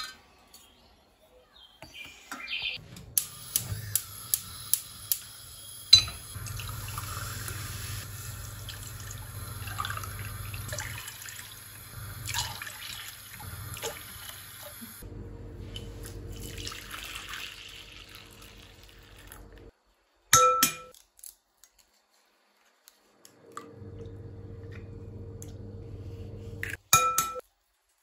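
Kitchen work sounds: water running at the sink, with glassware and dishes clinking. A steady motor hum comes in about halfway and again near the end, with sharp clinks in between.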